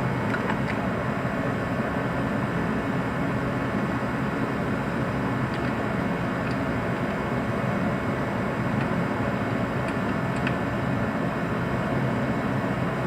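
A steady mechanical hum, even in level throughout, with a few faint, scattered light clicks.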